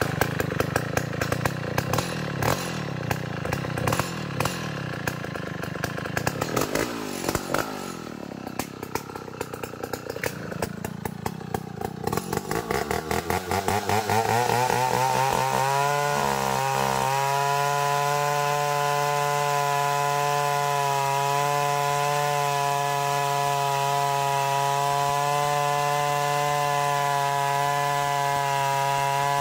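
Engine-driven trio sawmill cutting an ulin (ironwood) log: the machine labours unevenly under the load, then about halfway through rises in pitch and settles into a steady running hum as the blade runs free.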